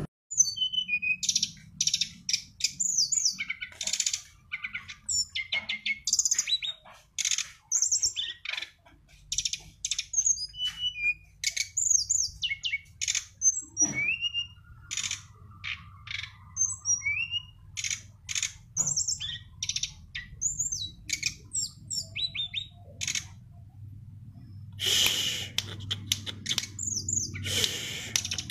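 A songbird singing a fast, varied song of high chirps, whistled slurs and short trills broken by brief pauses, with a harsher, rasping stretch near the end. A faint low hum runs underneath.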